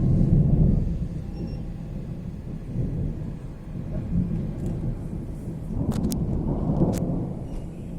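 Rolling thunder: a heavy low rumble, loudest at the start, easing off and then swelling again in a second roll near the end, with two sharp cracks about six and seven seconds in.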